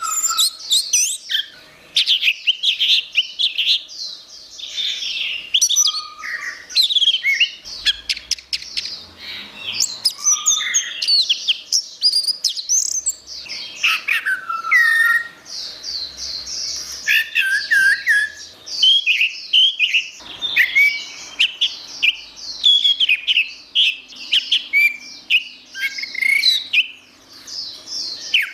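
Orange-headed thrush singing a long, continuous run of rapid, varied whistles and chattering phrases, with hardly a pause.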